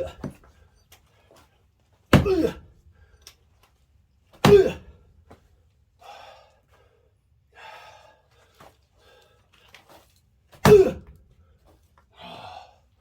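Heavy axe blows on a large round of firewood: three loud strikes, the first two a couple of seconds apart and the third after a longer pause, each with a short ringing knock. The log is not splitting.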